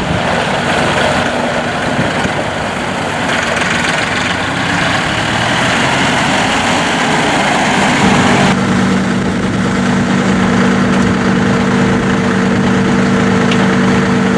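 John Deere 5055E tractor's diesel engine running, with a slight rise in pitch about four to six seconds in. From about eight seconds it settles to a steady, even hum as the hissing noise drops away.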